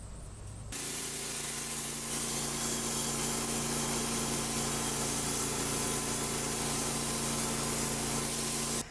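Homemade bandsaw sawmill running, its engine driving the band blade at a steady speed: an even hum with a hiss over it. It starts suddenly under a second in and cuts off abruptly at the end.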